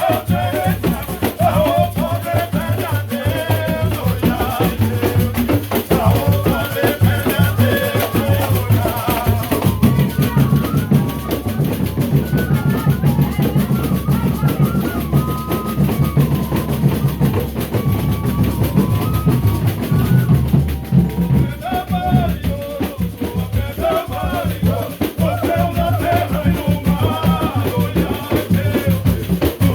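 Folia de Reis company playing: drum and rattle keep a steady beat under a sung melody.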